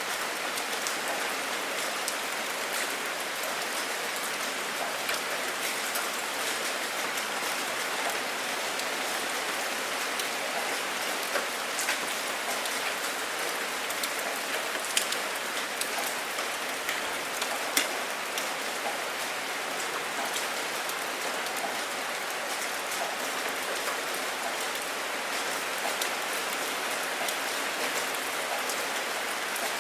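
Steady rain falling, an even hiss with many separate drops ticking and a few louder single drops landing close by.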